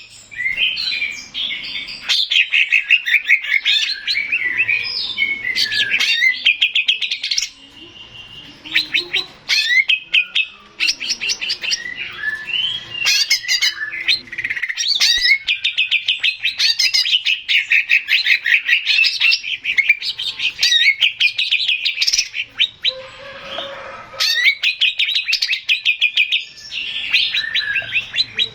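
Male green leafbird (cucak ijo) singing long runs of rapid, high-pitched chirps and trills, with short pauses about eight seconds in and again near twenty-four seconds.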